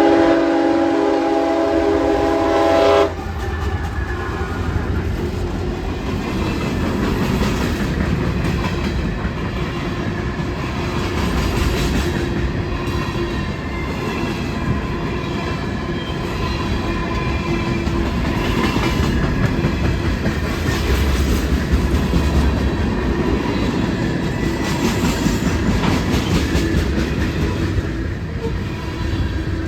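CSX manifest freight train: the lead locomotive's horn sounds one long chord that cuts off about three seconds in, then the train rolls past with a steady rumble of locomotives and freight cars on the rails.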